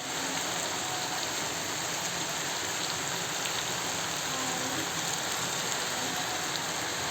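Chicken curry sizzling and simmering in the pan, a steady even hiss.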